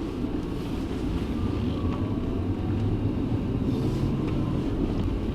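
BMW M62 3.5-litre V8 running at low revs, heard from inside the cabin as the car pulls slowly away, a steady low rumble.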